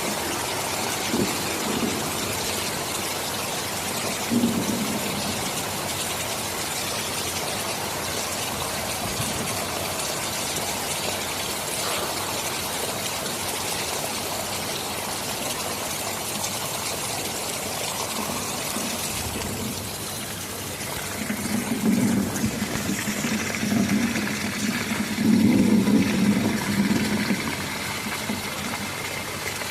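Steady heavy rain, an even hiss, with low rumbles of thunder swelling in several surges about two-thirds of the way through.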